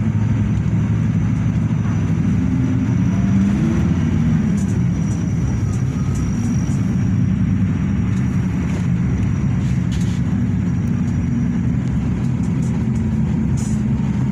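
Hino RK8 bus's diesel engine running steadily, a low hum whose pitch drifts slightly.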